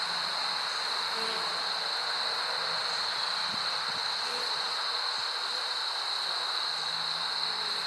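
Honey bees buzzing around an open hive, single bees passing the microphone as brief low hums that come and go, over a steady high-pitched hiss.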